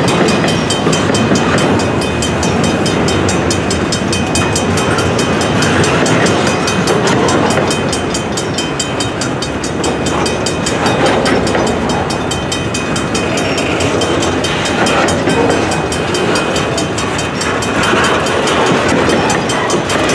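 Double-stack intermodal freight cars rolling slowly past on the rails: a steady rumble and clatter of wheels over the track. A steady high ringing runs through it, fitting the grade-crossing signal bell.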